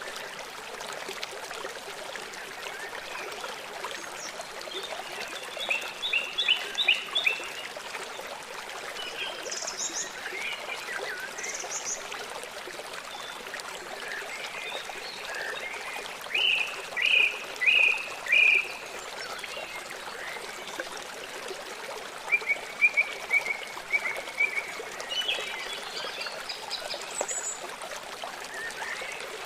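Small songbirds chirping in short bursts over the steady rush of running water, with the loudest a run of four sharp chirps a little past the middle.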